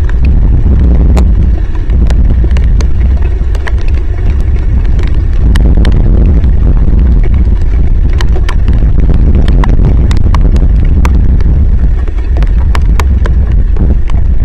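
Heavy rain and wind on the nest camera's microphone: a loud, constant low rumble of wind buffeting, with many sharp, irregular ticks of raindrops striking the housing.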